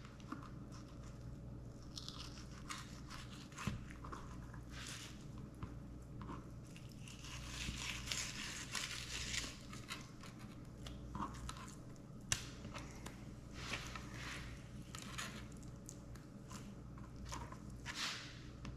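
A fillet knife slicing and scraping through a spotted seatrout fillet on a cutting board: scattered clicks and short wet rasps, with a longer stretch of scraping about eight seconds in, over a steady low hum.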